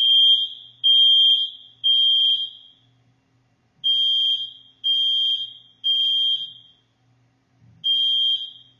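Smoke alarm sounding its full alarm: loud, high-pitched beeps in groups of three, about one a second, with a short pause between groups. This is the temporal-three pattern, which signals smoke or fire and means get out fast.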